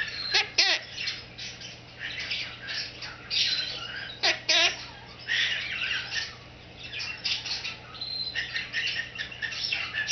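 Quaker parrot (monk parakeet) chattering in a run of rapid chirps and squawks, with short warbling whistled glides about half a second in and again about four seconds in.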